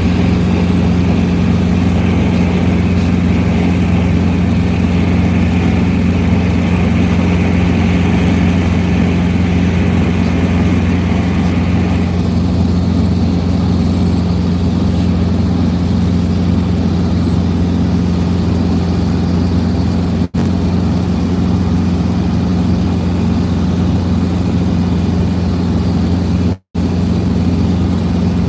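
Helicopter in flight: a steady, loud drone of rotor and engine with a low, even hum. A higher whine stops about twelve seconds in, and the sound cuts out briefly twice, the second time near the end.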